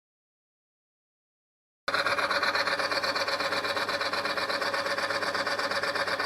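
Silence, then about two seconds in a friction test bench starts: the motor-driven roller runs against a hardened-steel ball treated with P18, giving a steady mechanical whir with a fine, fast ripple.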